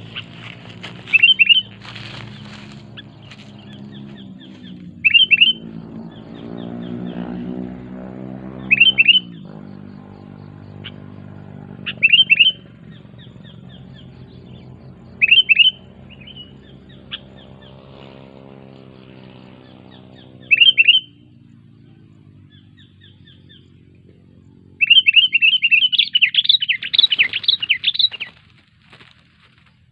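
Bird chirping in short, loud phrases repeated every three to four seconds, ending in a quick run of many chirps near the end, over a low steady hum that slowly shifts in pitch.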